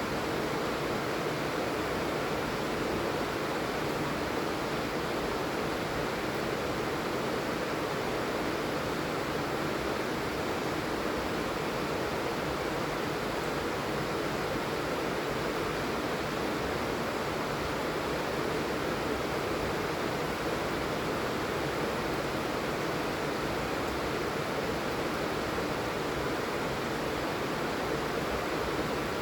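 Steady heavy rain, an even hiss without distinct drops or breaks.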